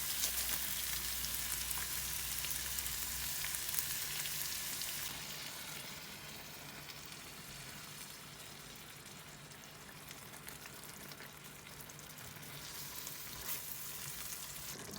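Food frying in a pan, a steady sizzle with small crackling pops. It drops in loudness about five seconds in and picks up a little again near the end.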